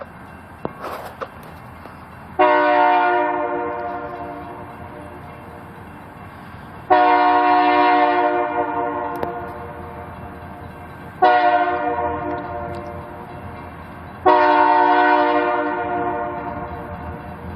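Diesel locomotive air horn, from an EMD GP40-3, sounding four long blasts in a row, each several seconds long and starting loud. Beneath the horn the train's low rumble grows as it approaches.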